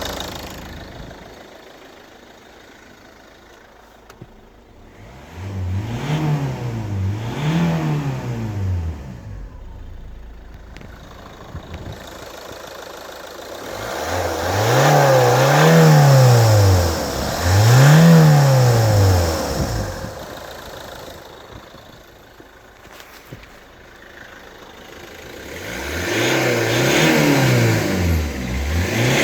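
Ford 2.0 TDCi G6DG four-cylinder diesel engine idling and being revved in quick pairs, three times: each rev rises and falls back to idle.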